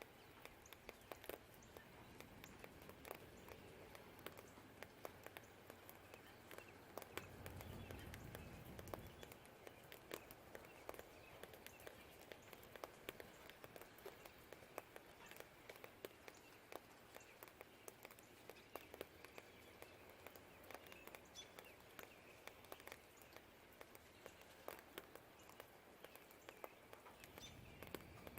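Faint steady rain with many scattered drips tapping. A low distant rumble swells about seven seconds in and again near the end, and a few faint bird chirps come through.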